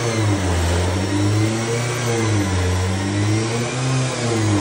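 Turbocharged 2.0-litre Cosworth YB four-cylinder race engine in a Ford Fiesta rallycross car, free-revving while stationary, its pitch rising and falling several times in slow swells.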